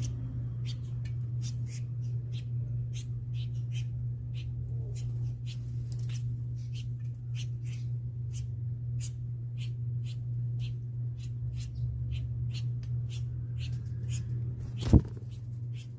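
Short, high chirps from a small bird, two or three a second, over a steady low hum, with one sharp thump about a second before the end.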